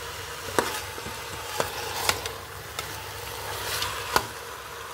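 Curry chicken sizzling as it fries in the pot while a spoon stirs it, with a few sharp taps of the spoon against the pot.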